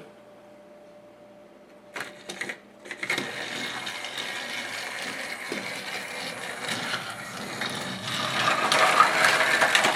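A few clicks, then a battery-powered Thomas Trackmaster toy train running along its plastic track: a steady whir of the small motor and gears with the wheels rattling, growing louder near the end as it comes closer.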